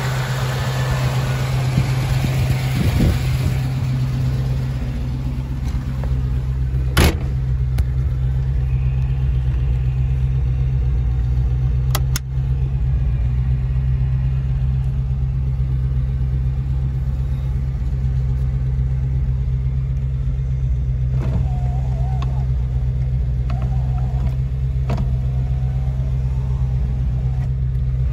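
1929 Graham Paige's engine running steadily, with a sharp click about seven seconds in and another about five seconds later.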